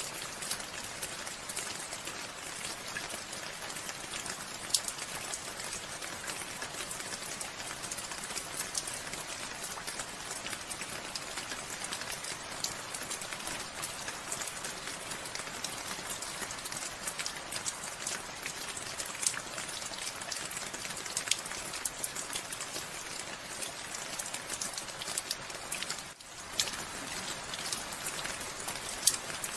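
Steady rain falling, an even hiss with many individual drops ticking sharply through it. A few seconds before the end it cuts out for a fraction of a second, then goes on.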